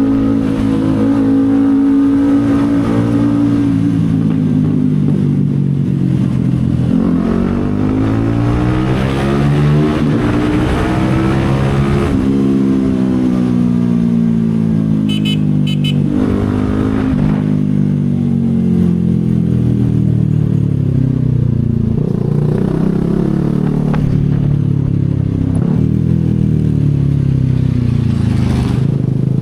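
CFMoto 250SR Lite's single-cylinder engine running on the move, revs climbing and falling several times. There is a sudden drop in pitch about twelve seconds in, where it shifts up mid-acceleration.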